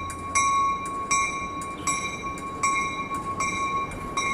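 Railroad grade-crossing bell ringing in an even, repeating rhythm, about two strokes a second, over the low rumble of a departing passenger train.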